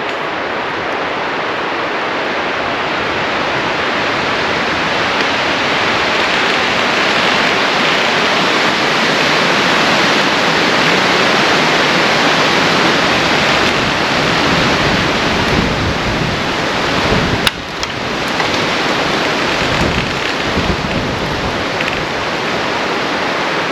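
Heavy rain coming down, a loud steady rush that builds over the first several seconds, with one sharp crack about two-thirds of the way through.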